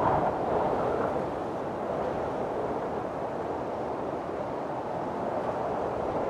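Strong wind blowing in gusts during a windstorm, a steady rushing with a faint whistle that eases about a second in.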